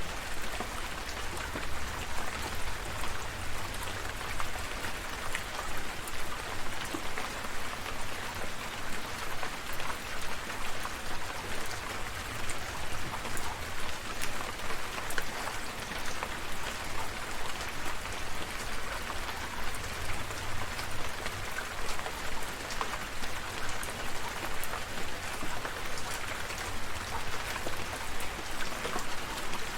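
Steady rain falling, with many individual drops pattering on surfaces over a low, continuous rumble.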